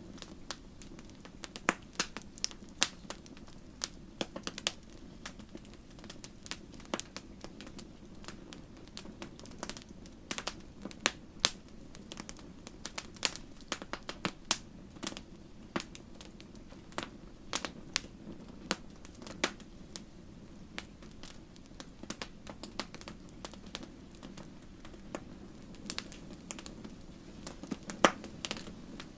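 Wood campfire burning, crackling with irregular sharp pops and snaps over a steady low rumble of the flames.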